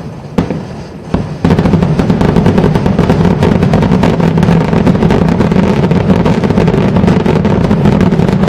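Fireworks display: a few separate bangs, then from about a second and a half in a dense, continuous barrage of bursts and crackling that runs on loud and unbroken.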